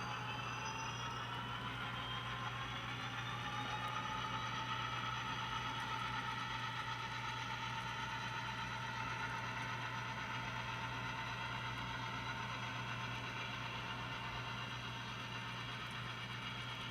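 Model train locomotive running on the layout, its motor whine rising in pitch over the first couple of seconds and then holding steady, over a constant low hum.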